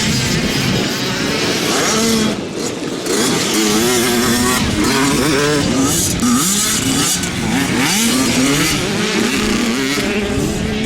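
Several small two-stroke motocross bikes racing, their engines repeatedly revving up and dropping back as the riders shift and roll off the throttle.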